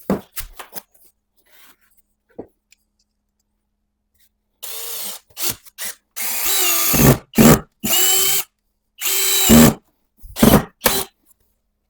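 Electric drill run in a series of short bursts, its motor whine rising in pitch each time the trigger is squeezed, after a few light knocks.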